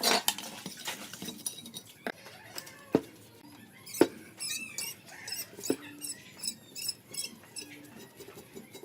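Tools and small metal carburetor parts being handled on a workbench: a string of irregular knocks and clinks, the loudest a few seconds in, with a run of short high squeaks in the middle.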